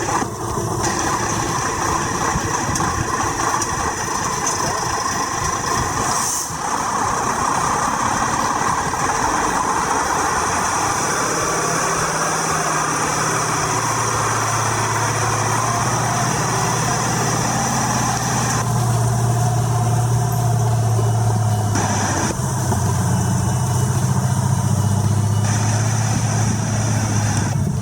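Praga V3S truck's diesel engine running steadily, with a low hum that grows stronger about halfway through and shifts a few times.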